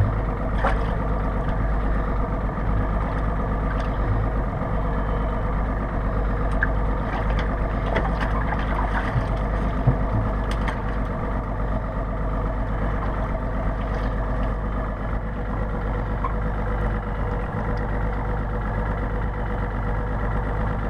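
A boat's engine idling steadily, with a few light knocks and clicks from handling on board.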